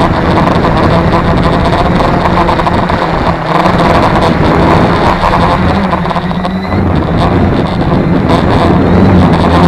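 Tarot 650 quadcopter's brushless motors and propellers buzzing in flight, their pitch wavering as the flight controller corrects against gusts, with wind buffeting the microphone.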